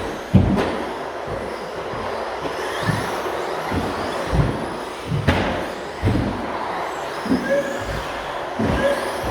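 Radio-controlled stadium trucks racing: a steady wash of motor whine and tyre noise, with faint whines rising and falling, and irregular thuds, the sharpest about five seconds in.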